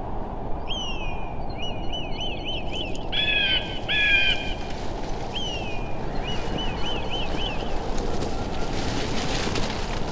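Birds calling in series of short, falling whistled notes, with a louder, fuller pair of calls about three to four seconds in, over a steady low rush of background noise. Faint crackling comes in near the end.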